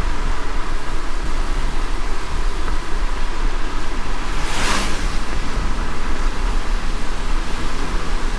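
Car driving in light rain: a steady low road rumble under a hiss of rain and wet tyres, with a brief whoosh about halfway through.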